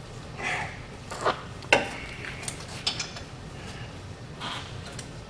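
Metal hand tools and parts clinking and clanking as they are handled in a hub and brake job: about six separate sharp strikes, the loudest a little under two seconds in.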